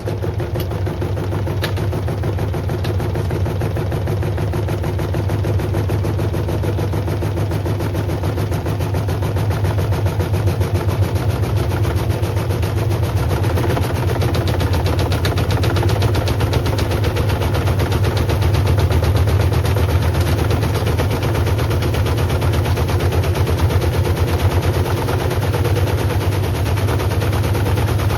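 Beko WM74135 washing machine running with a 5 litre plastic bottle tumbling in the drum: a steady motor hum under rapid, continuous knocking that grows a little louder partway through.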